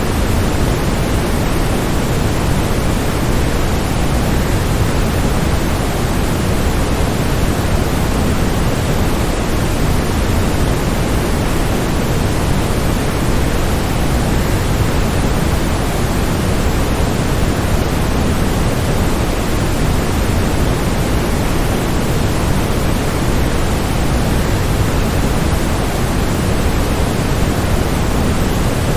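Waterfall: a steady, even rush of falling water with no breaks, heaviest in the low end.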